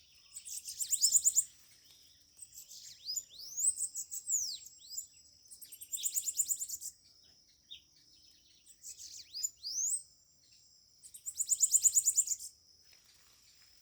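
Bananaquits singing: about five bursts of high, rapid, buzzy trills mixed with quick sweeping whistles, a second or two apart, over a faint steady high whine.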